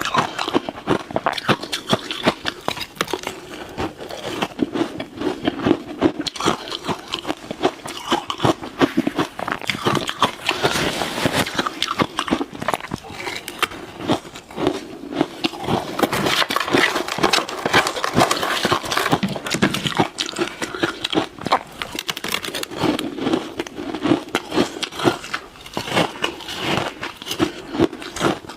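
Ice being bitten and chewed close to the microphone: a dense, irregular run of crunching and crackling bites.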